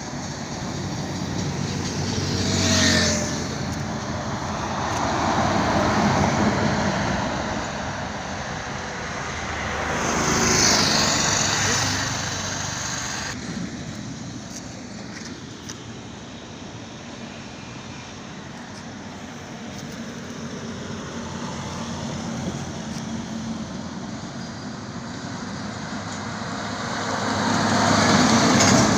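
Highway traffic: vehicles passing one after another, each pass swelling and fading. There are four clear passes, about three, six and ten seconds in and the loudest near the end.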